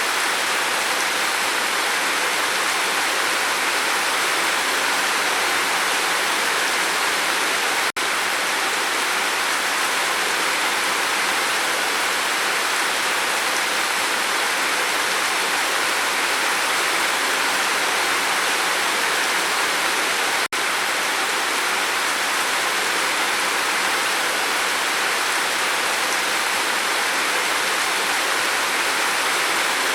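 Steady, heavy rain: a dense, even hiss of rainfall, broken by two split-second dropouts, about eight seconds in and about twenty seconds in.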